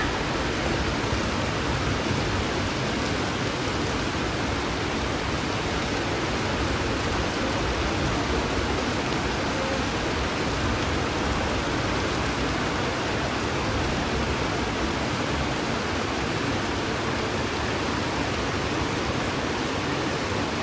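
Steady heavy rain, a continuous even hiss.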